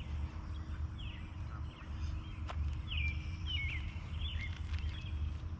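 Birds calling repeatedly: short chirps that slide in pitch, over a steady low rumble of outdoor background noise.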